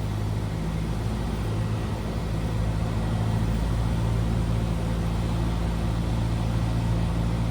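Cessna 172R's four-cylinder Lycoming engine and propeller running steadily in flight, a constant drone heard in the cabin.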